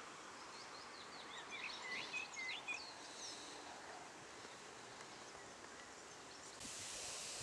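Faint steady open-air background noise with a small bird chirping a quick run of short, bending calls between about one and three seconds in. Near the end a brighter hiss comes in suddenly.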